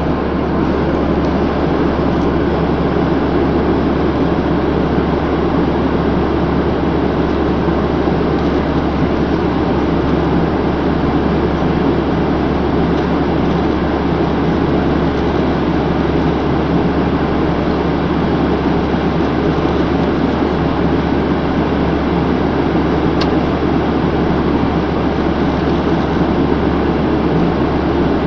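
Steady drone of engine and airflow noise inside an airplane cabin in flight, deepest at the low end, with one faint click about four-fifths of the way through.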